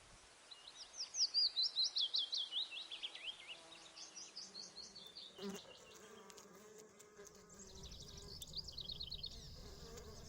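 A songbird sings a fast trill of high downward-sweeping notes, loudest near the start and repeated more softly twice later. From about halfway a bee buzzes steadily close by, with a low rumble beneath it near the end.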